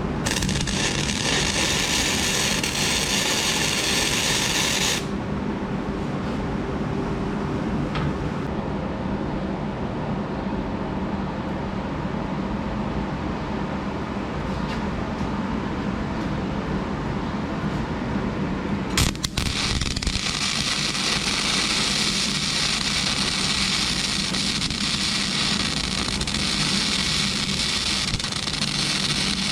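Flux-core wire-feed arc welding: the arc crackles and hisses for the first five seconds or so, then again from about two-thirds of the way in. A steady low hum runs in between.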